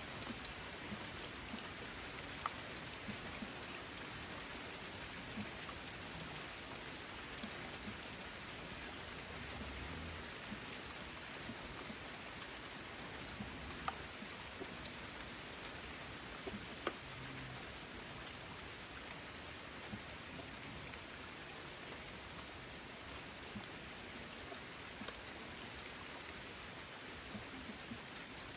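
Steady rain falling on a corrugated zinc roof: an even patter with a few sharper single drop ticks.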